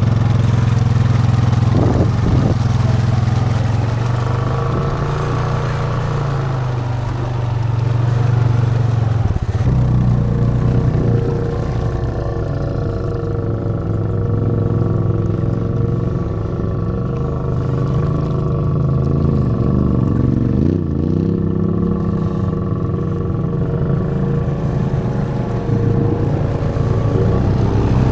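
Honda Rubicon ATV engine running steadily under way, its pitch rising and falling a little as the throttle changes.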